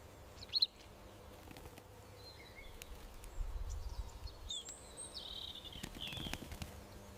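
Small garden birds calling: a sharp chirp about half a second in, then scattered high chirps and a short falling trill a little past halfway. Beneath them lie faint low background noise and a brief low rumble near the middle.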